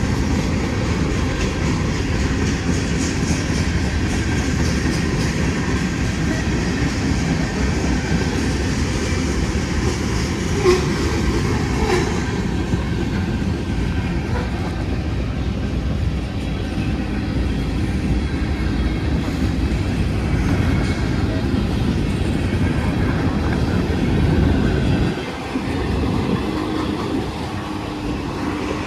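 Manifest freight train's cars rolling past, a steady rumble of wheels on the rails with clicking over the rail joints and one sharp knock about ten seconds in.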